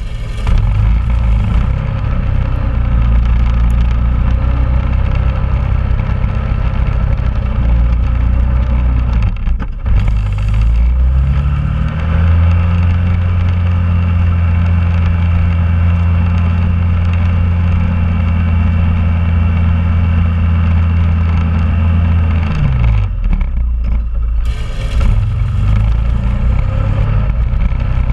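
Honda Rubicon ATV's single-cylinder four-stroke engine running. About ten seconds in the engine speeds up, holds at a higher steady speed for around ten seconds, then drops back.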